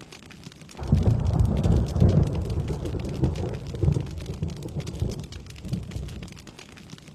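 A roll of thunder over steady rain: a deep rumble breaks in about a second in, pulses for several seconds and dies away, with the rain's light patter underneath.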